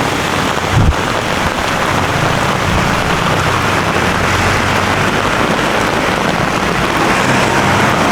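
Heavy rain falling steadily, with a brief low thump about a second in.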